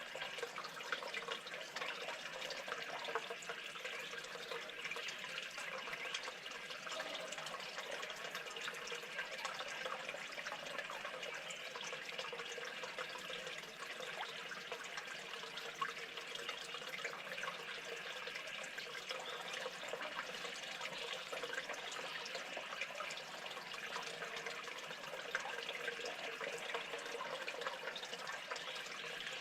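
Steady running or trickling water with many small clicks and splashes.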